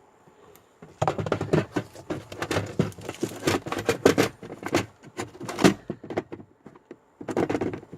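Irregular plastic clicks and knocks of car interior trim being handled and fitted back into place as the glove box is reassembled. The rattling runs for several seconds, pauses briefly, then comes again near the end.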